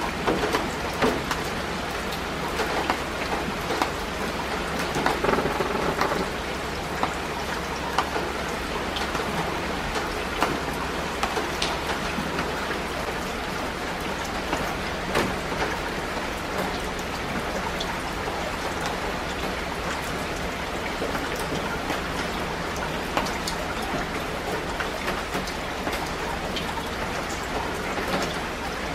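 Steady rain: an even hiss filled with many small sharp ticks of individual drops striking, a little busier in the first few seconds.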